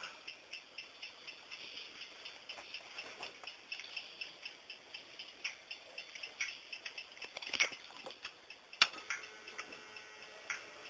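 Faint, regular ticking, about three ticks a second, with two louder clicks about seven and a half and nine seconds in.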